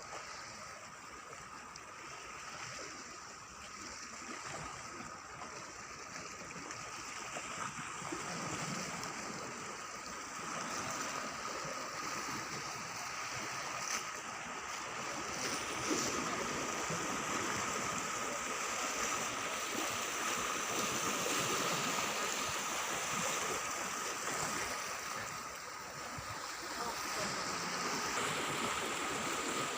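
Sea waves washing steadily on the shore, slowly growing louder, with a faint steady high whine running under it.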